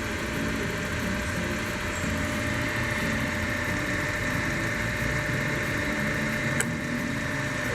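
Kone KR40 radial drill running with a steady mechanical hum. A faint higher whine comes in during the middle of the stretch. A single sharp click comes near the end.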